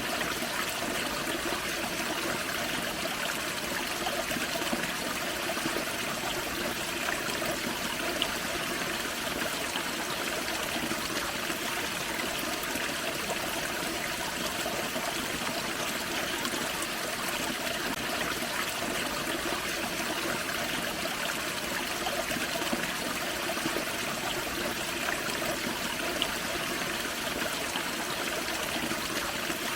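Forest creek flowing over a small waterfall: a steady rush and trickle of water.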